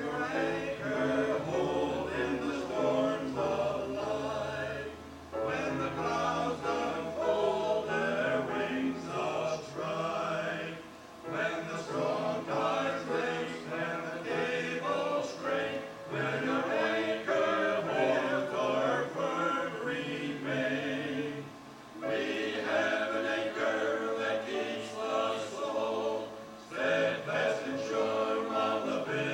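A choir singing, in phrases broken by short pauses about every five or six seconds.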